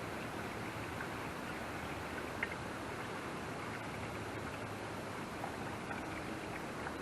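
Gasoline being poured into a small fuel tank, a steady hiss of liquid, with one sharp click about two and a half seconds in.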